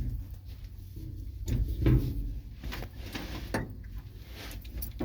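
Knocks and clunks of a truck cab door being opened and someone climbing up into the cab, with rustling handling noise. The loudest thump comes about two seconds in.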